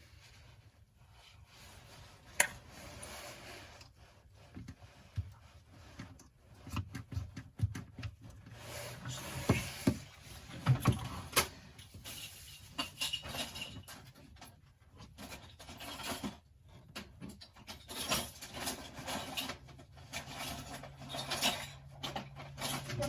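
Small screwdriver bit scraping and clicking against an iPhone 8's cracked screen and frame as the display is pried up, in irregular scrapes with sharp ticks.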